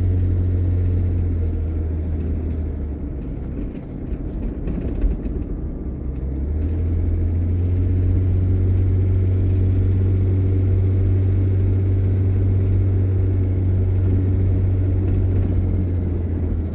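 Vehicle engine and road drone heard from inside the cabin while driving through town. The low drone falls away about three seconds in, with a few sharp clicks and a knock, and builds back up steadily a few seconds later.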